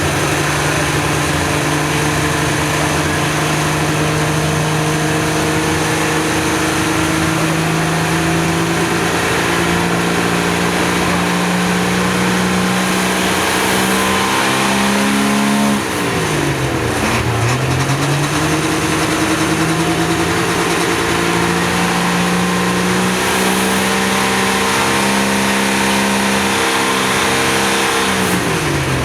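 International pulling tractor's engine running hard under load, its pitch slowly climbing. About halfway through the revs drop sharply and climb back up, and they fall off again near the end.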